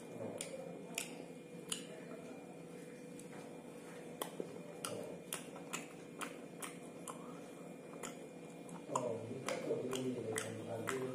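Close-up chewing of rice and beef curry eaten by hand: irregular sharp wet mouth clicks and lip smacks, a few a second. A low voice comes in about nine seconds in.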